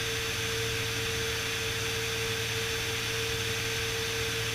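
Beechcraft Bonanza S35's piston engine and propeller drone heard inside the cockpit in flight: a steady, even noise with a faint constant whine, no change in power.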